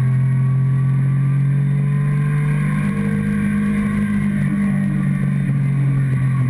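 Sport motorcycle engine heard close up from the fuel tank, running at a fairly steady speed with its pitch shifting slightly.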